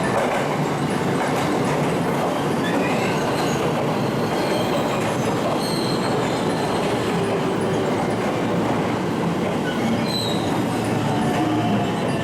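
Train moving along the platform with steady running noise from its wheels on the rails, and a few brief high squeals from the wheels.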